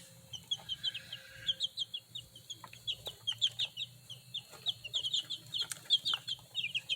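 A brood of young chicks peeping constantly, many short high peeps overlapping, with a few faint taps among them.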